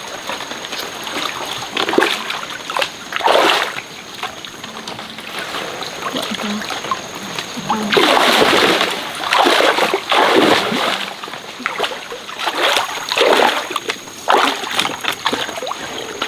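Water splashing in irregular bursts every second or two, loudest and longest for a few seconds around the middle.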